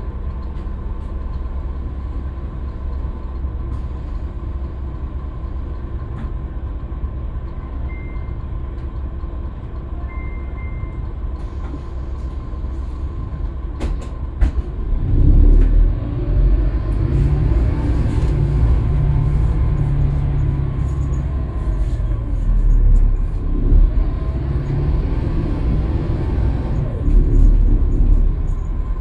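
Scania K320UB city bus's diesel engine idling with a steady low rumble, with two short high beeps. About halfway through the bus pulls away: the engine grows louder and rises in pitch through several gear changes.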